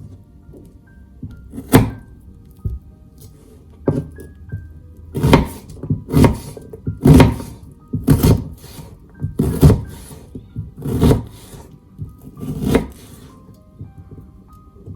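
Kitchen knife coming down on a wooden cutting board in slow, uneven chops, about nine thuds roughly a second apart, over soft background music.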